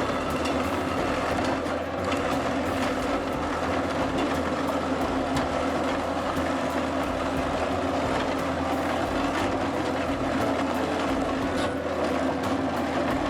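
Hypro debarking head stripping bark from eucalyptus logs: a machine running steadily with a constant low hum under rapid, irregular clicking and rattling.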